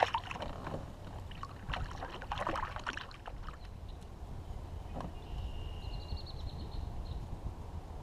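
Knocks, rattles and water splashes of handling in a fishing kayak, a sharp knock at the start and a cluster of clicks and splashing a couple of seconds in, over a low steady rumble. A brief high steady tone sounds about five and a half seconds in.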